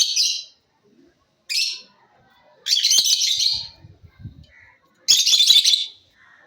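Pet lovebirds chattering in short, shrill bursts, about four in all, each under a second long with brief pauses between.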